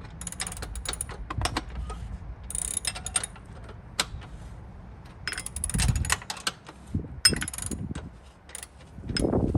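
Irregular metallic clicks and clinks of hand tools and small metal parts being handled, with no engine running.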